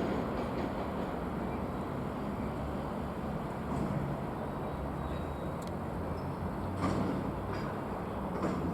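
A train running on the line: a steady low rumble and hum with a few faint clicks, slightly quieter than at the start.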